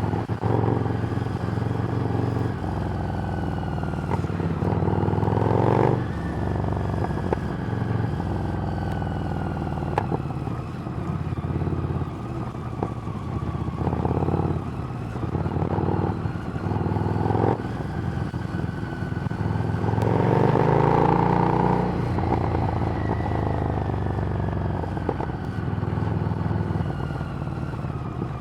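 Harley-Davidson Street Rod's V-twin running through a Screamin' Eagle exhaust while riding. The engine note rises and falls with throttle and gear changes, with stronger pulls about five seconds in and again around twenty seconds in.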